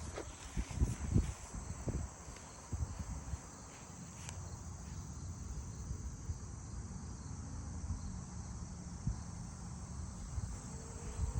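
Steady high-pitched insect chirring, with a few low thumps in the first couple of seconds.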